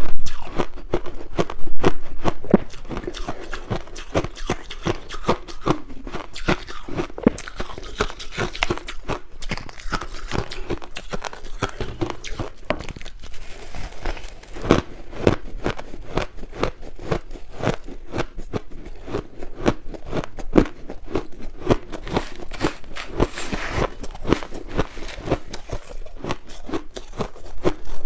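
Close-miked crunching of crushed ice being bitten and chewed, a dense run of rapid crackling crunches, with the loudest bites near the start and about two seconds in.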